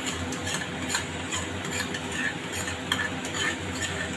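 Masala paste sizzling and frying in oil in a kadai, with a spoon scraping the paste out of a plastic bowl and making scattered light clicks.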